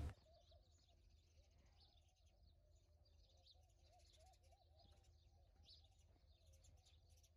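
Faint birds chirping and calling, at a near-silent level.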